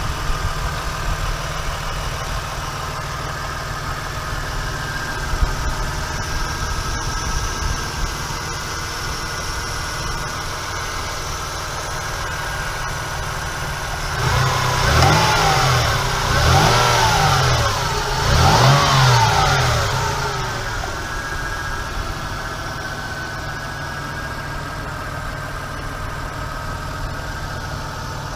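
Toyota Tacoma engine idling steadily, with three quick revs about halfway through, each rising and falling in pitch, before it settles back to idle.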